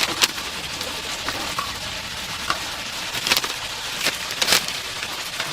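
Chicken deep-frying in hot oil, a steady sizzle with scattered sharp crackles and clicks, the loudest near the start and around three and four and a half seconds in.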